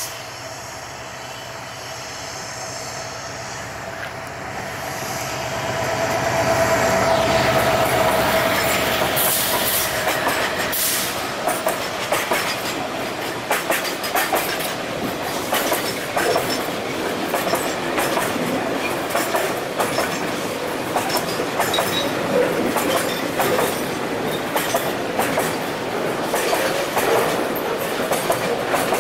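A 2,200 hp EMD GT38ACL diesel-electric locomotive approaches and passes with its engine running, growing louder over the first eight seconds or so. Container-laden bogie flat wagons then roll past, their wheels clicking over the rail joints.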